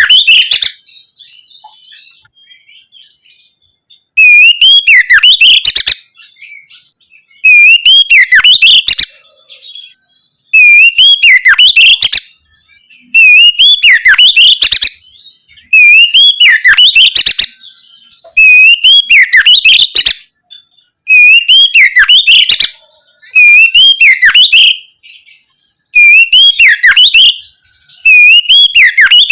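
Oriental magpie-robin (kacer) singing loud, clear whistled song phrases over and over. Each phrase lasts about a second and a half and comes roughly every three seconds, with short quiet gaps between.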